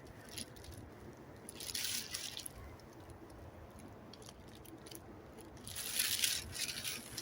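Footsteps crunching and rustling through frosty leaf litter, in two short bouts with a pause between.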